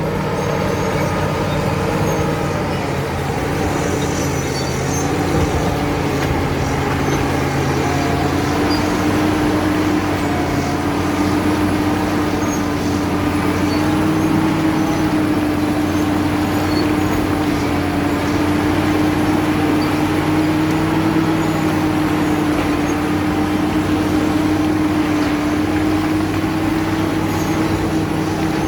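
Caterpillar D7 bulldozer's diesel engine running steadily, with a constant whine riding over it that rises slightly in pitch about eight seconds in, then holds.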